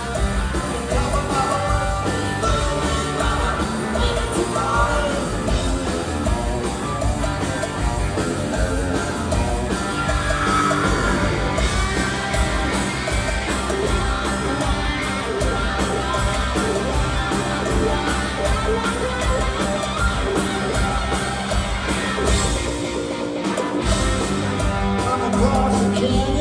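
Rock music with singing and guitar, playing steadily throughout.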